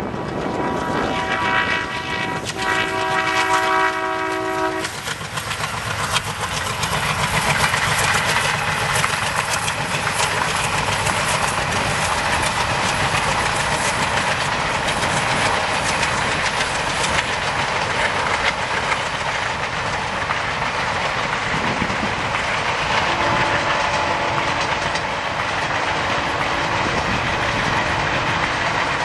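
An Indian Railways diesel locomotive sounds its multi-tone horn for about four seconds, then the train passes close by at speed: a continuous rush of wheels clattering over rail joints. A fainter steady horn-like tone sounds again in the last few seconds.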